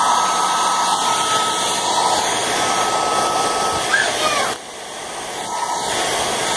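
Handheld hair dryer running on low, a steady rush of air with a thin whine. A little past four seconds in its sound drops sharply, then swells back up over the next two seconds.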